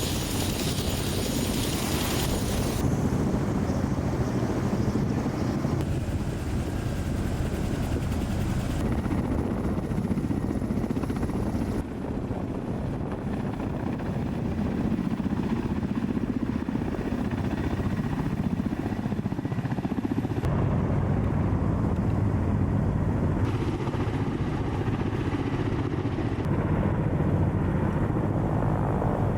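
Ka-52 attack helicopter's coaxial rotors and turbine engines running steadily. The sound shifts abruptly several times, as if from separate clips.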